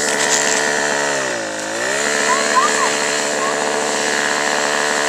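Small four-stroke pole saw engine running at high speed. About a second and a half in, its pitch dips briefly as it bogs in the cut, then it picks back up and runs steadily.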